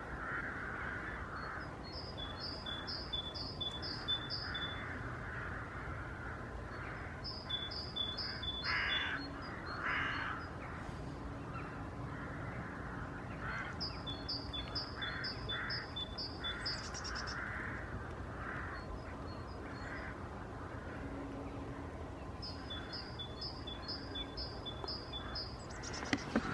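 Birdsong: a small bird repeating a phrase of five or six quick high notes every several seconds, with harsher, lower calls in between.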